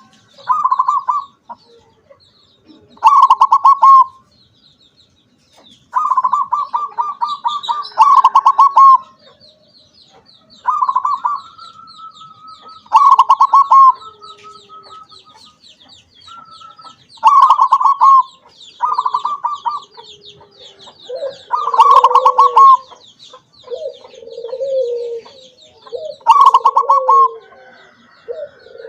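Perkutut (zebra dove) cooing over and over in short, rapidly pulsed phrases, roughly one every one to two seconds, with deeper coos joining in during the last several seconds. A thin, high, continuous twitter runs behind it.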